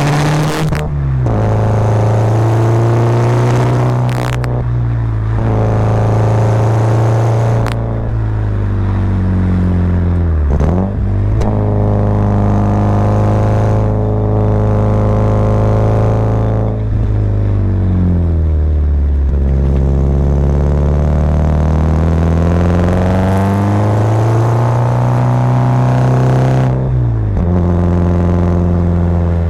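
Subaru Impreza WRX's turbocharged flat-four boxer engine pulling uphill, revs climbing and falling again and again as it is driven through the gears and bends, with several sharp drops in pitch at the shifts or lifts.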